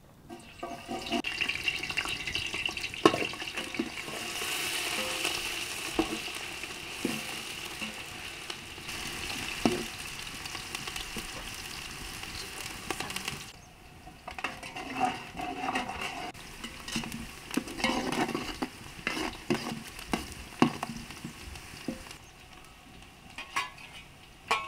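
Food sizzling in hot oil in a cooking pot while a spoon stirs and knocks against the pot. About 13 seconds in the sizzle dies down, and the clatter of stirring goes on.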